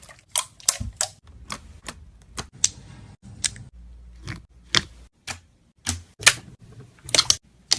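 Jiggly slime being poked and squeezed by fingers, giving a string of sharp, irregular clicks and sticky pops, with a short hissy squish about three seconds in.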